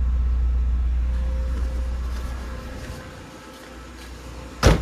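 Nissan GA13 carburetted four-cylinder engine idling, a steady low hum that fades away about three seconds in. A single sharp, loud knock comes near the end.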